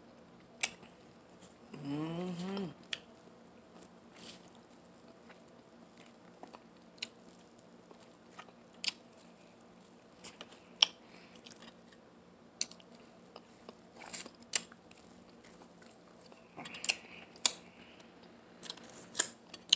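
Close-up mouth sounds of eating corn on the cob and licking fingers: scattered wet lip smacks and chewing clicks, with a short hum about two seconds in.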